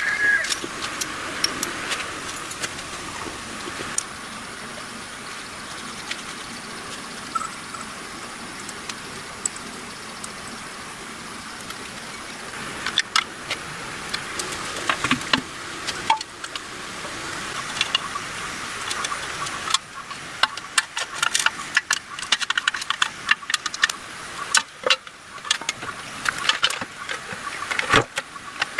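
Small 110cc Win motorcycle engine running, with scattered clicks and knocks that grow more frequent about halfway through.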